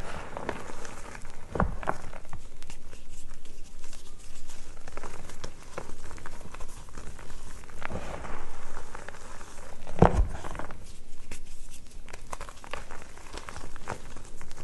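Reformed gym chalk (magnesium carbonate) flowers and bars being crushed and crumbled: a steady gritty crunching and crackling made of many small clicks, with two heavier thuds as pieces break or press down, one about a second and a half in and the loudest about ten seconds in.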